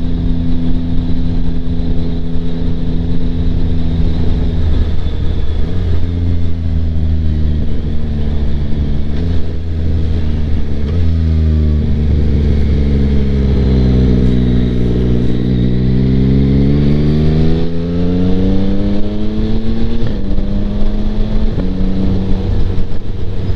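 2025 Yamaha MT-09's inline-triple engine through a Kelpi Flanker exhaust with the baffle in, heard from under the rider's helmet while riding. The engine note steps up and down several times, sinks and climbs again in the middle, with wind rush underneath.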